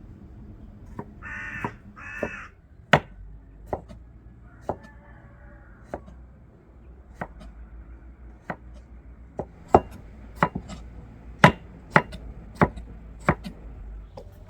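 A crow cawing twice, harshly, about a second in, followed by a string of sharp, irregularly spaced knocks.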